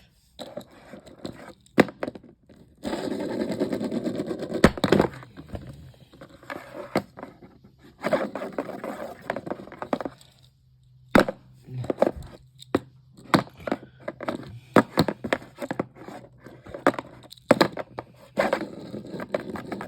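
Old ceiling fan being smashed: a string of sharp knocks and cracks with scraping, including a long scrape about three seconds in. A faint steady motor hum sits under the later knocks.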